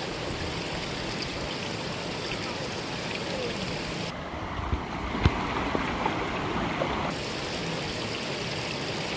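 Mountain valley stream rushing and burbling steadily over rocks, with a couple of short knocks about five seconds in.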